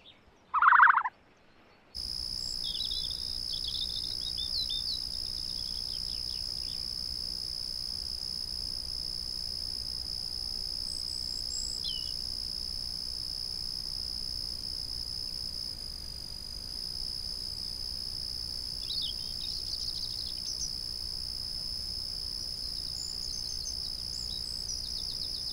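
A short, loud bird call about a second in, then a steady high-pitched insect chorus with occasional faint chirps over it.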